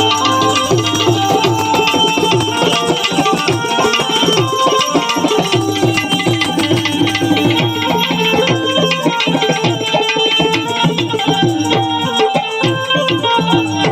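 Instrumental interlude of a Gujarati devotional bhajan: tabla playing a fast, dense rhythm with gliding bass strokes, under sustained melodic accompaniment, heard loud through a PA system.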